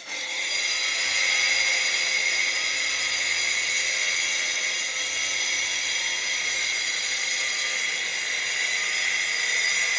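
Wall chaser cutting a cable chase, running together with its dust-extraction vacuum: a steady high-pitched whine that swells over the first second and then holds.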